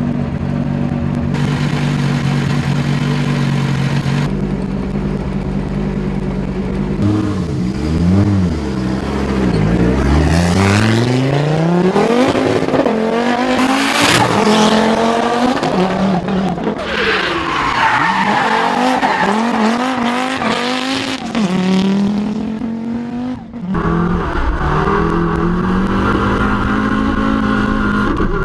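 Audi S1 quattro Group B rally car's turbocharged five-cylinder engine being driven hard: a steady note at first, then revs repeatedly rising and falling through gear changes from about eight seconds in, with tyres squealing in the middle, a brief lift near the end, and a steady note again.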